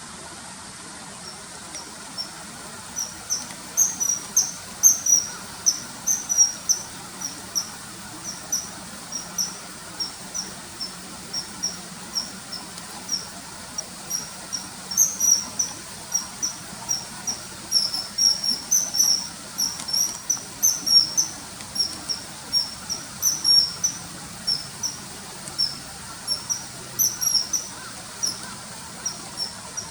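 Common kingfisher calling: a long irregular series of short, shrill, high piping notes, a few a second, bunched in quick runs, starting about a second in.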